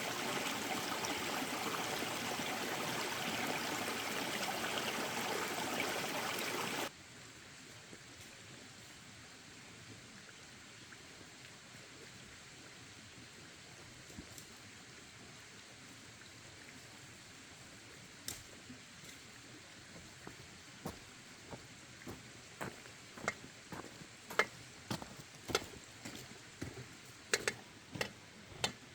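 Rushing water noise that stops abruptly about seven seconds in. After it comes a low background with scattered sharp clicks or taps, growing more frequent over the last ten seconds.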